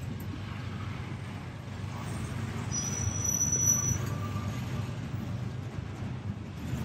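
Freight train of covered steel-coil cars rolling past: a steady low rumble of wheels on rail, with a brief high-pitched squeal about three seconds in.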